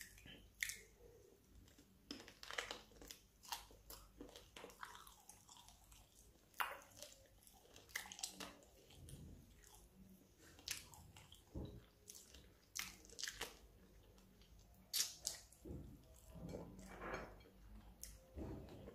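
A person chewing and biting chicken feet, with irregular short crunches and wet chewing noises about once a second.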